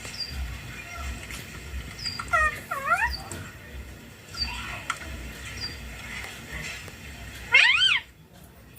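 Indian ring-necked parakeet calling: short high chirps every second or so, a pair of whining calls that rise and fall about two to three seconds in, and a loud arching call near the end.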